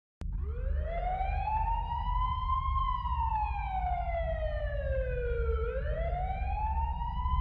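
A siren wailing: its pitch climbs slowly, falls slowly, then starts climbing again near the end, over a steady low rumble.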